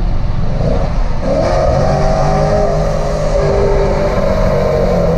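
Car engine picking up revs about a second in, then pulling steadily over a constant low rumble.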